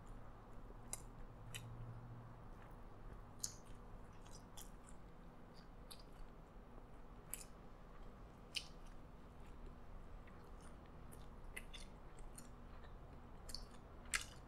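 Faint close-up chewing of a burger patty, with scattered soft mouth clicks and smacks; the sharpest smack comes just before the end.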